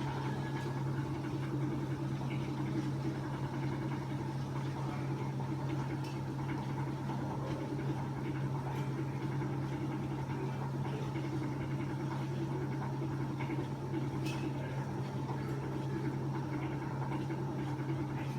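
Washing machine running: a steady low motor hum with a little vibration and a few faint ticks.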